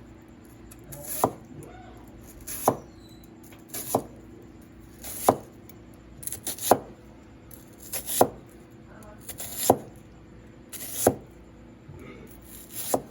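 Kitchen knife chopping on a cutting board in slow, even strokes, about nine sharp knocks roughly one every second and a half.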